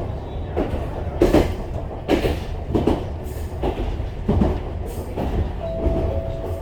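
Ichibata Electric Railway train running, heard from inside the carriage: a steady low rumble with the wheels clicking over rail joints about every three quarters of a second. A thin steady tone joins near the end.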